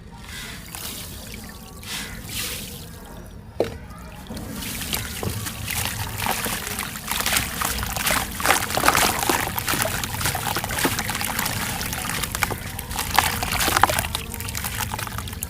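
Water poured onto a dry red sand crumble, giving a dense crackling fizz as it soaks in, from about four seconds in after a few soft swishes.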